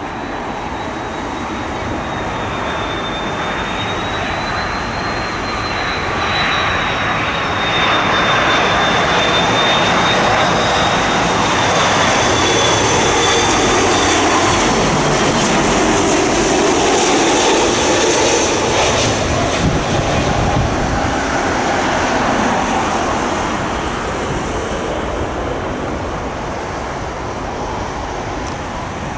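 Jet airliner passing on final approach to land, its engine noise building to a peak about halfway through and then fading, with a high whine that drops slightly in pitch as it goes by.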